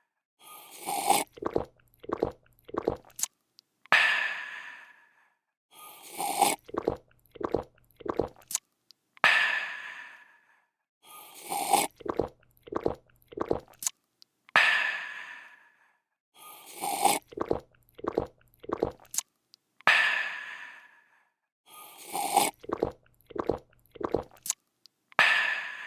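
A person drinking in a repeating loop: a slurp, three or four quick gulps, then a long breathy "aah" of refreshment that fades out, the cycle coming round about every five seconds.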